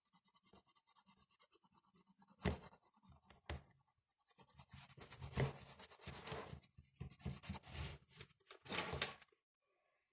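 Drawing tool scratching and rubbing across paper in quick repeated strokes, louder in a few spells, stopping about a second before the end.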